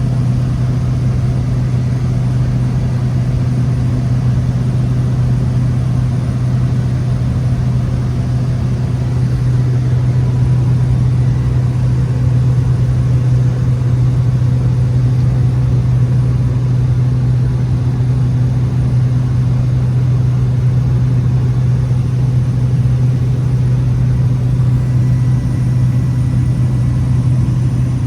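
Cessna 208 Caravan's PT6A turboprop engine and propeller droning steadily, a loud low hum that holds even without rising or falling.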